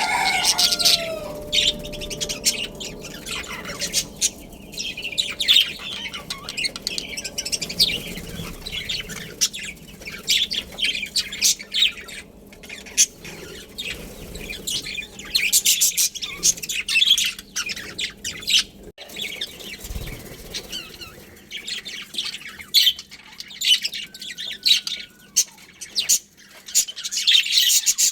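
A colony of budgerigars chirping and chattering, many short, high calls overlapping, thinning out for a few seconds past the middle.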